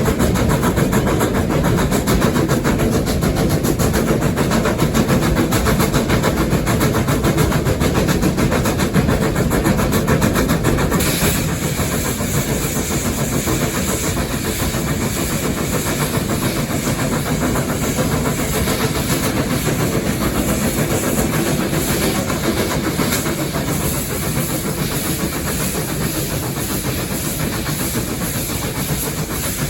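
Steam locomotive running, heard from inside its cab: a steady, loud mechanical rumble and clatter. About eleven seconds in, a brighter hiss comes in over it.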